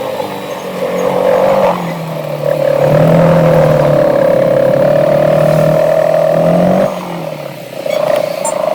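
Motorcycle engine running at a steady riding speed, a loud, even drone whose pitch shifts slightly a couple of times and eases off about seven seconds in.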